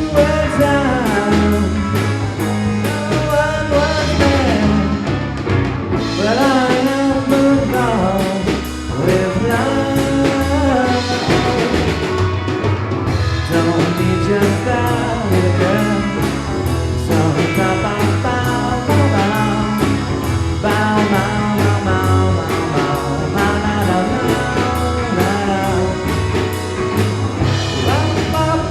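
A live band playing a song with a lead singer over a steady drum beat, during a sound check.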